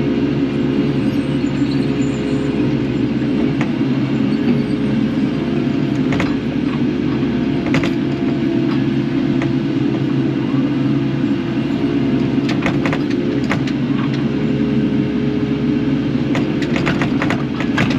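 Kubota KX080 excavator's diesel engine running steadily under work, with scattered sharp clanks and knocks, a cluster of them near the end.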